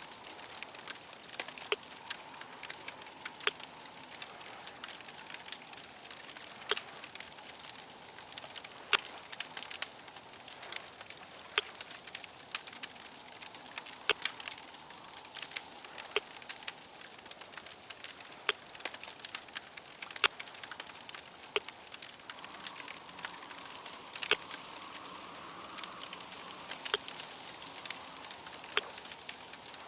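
Crackling fire: a steady hiss with irregular sharp pops and snaps.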